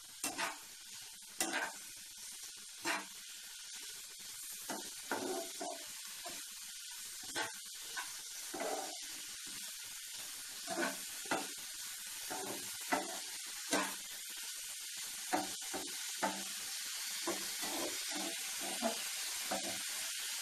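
Chicken and vegetables sizzling in a non-stick frying pan over a medium-high gas flame, the sizzle slowly growing louder, while a spatula scrapes and knocks against the pan in short, irregular strokes as the food is stirred.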